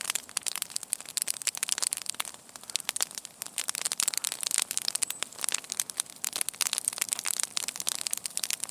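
Campfire crackling, with many quick irregular snaps and pops.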